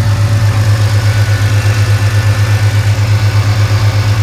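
2008 Ford Mustang's 4.0 V6 idling through long-tube headers, with a strong, even low pulse.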